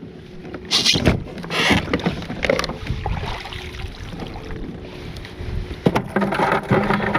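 Splashing water and knocks against a kayak as crabs are worked off a trotline and dropped into a bucket, with several sharp splashes in the first few seconds. A steady low hum comes in near the end.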